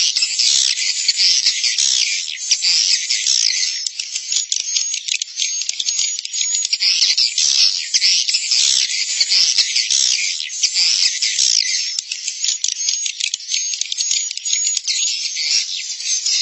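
Edible-nest swiftlet colony twittering: dense, continuous overlapping high chirps. This is a recorded roosting lure call ('suara inap'), played to draw swiftlets into a swiftlet house to roost.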